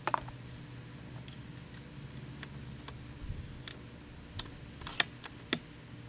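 A series of light, separate clicks and taps from handling the muzzle loader's loading gear, a quick cluster at the start and then about half a dozen single clicks, the sharpest about five seconds in.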